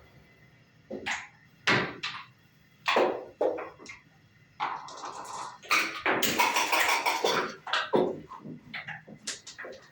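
Backgammon pieces clacking: several sharp taps of checkers set down on the board, and about halfway through a dense rattle of dice shaken in a cup and thrown.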